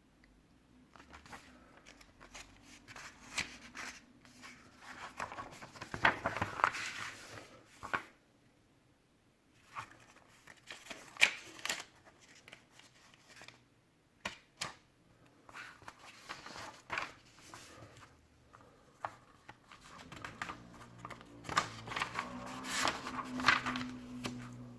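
Packaging being handled and unwrapped by hand: irregular rustling and crinkling with scattered clicks and knocks, in several busy spells.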